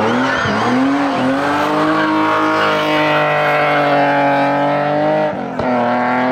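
Hillclimb race car engine at full throttle. In the first second its note dips and climbs back, then it holds a high, slowly rising note for several seconds, with a short break for a gearshift about five and a half seconds in.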